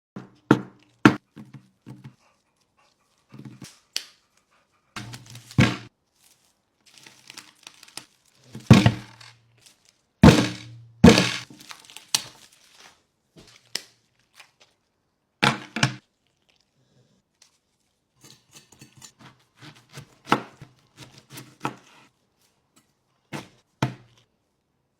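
A dog making short, low growls and grunts again and again, mixed with sharp knocks and thuds.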